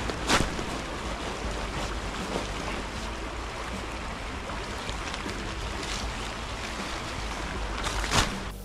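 Steady wind rumble on the microphone over outdoor noise, with two sharp knocks, one just after the start and one near the end.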